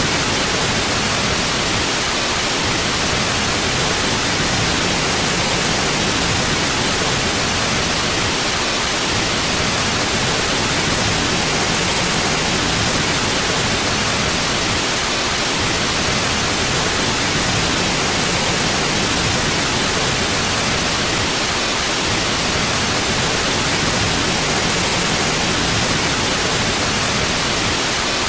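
Steady white noise: an even, unchanging hiss, strongest in the upper frequencies, with no breaks or changes.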